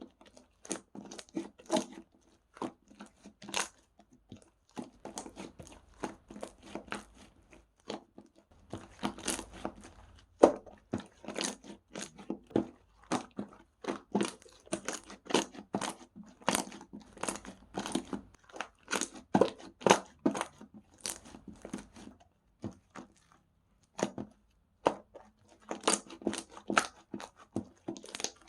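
Strawberry slime being pressed, squeezed and pulled by hand, giving a dense run of irregular crackling clicks and pops, with short lulls about eight seconds in and again after about twenty-two seconds.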